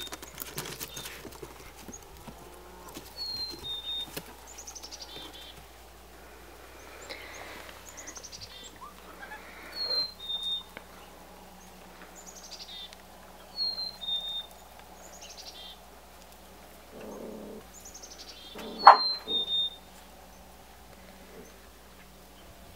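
A songbird singing the same short song every few seconds: a quick pair of high whistled notes, the second a little lower, and a falling trill. A single sharp knock comes near the end.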